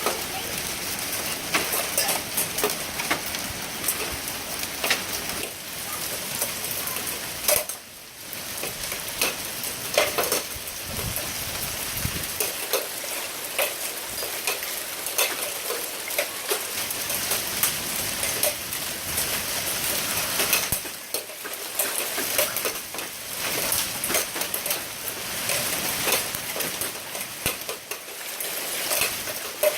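Hail falling hard, hailstones striking hard surfaces in a dense, continuous clatter of sharp ticks over a rain-like hiss.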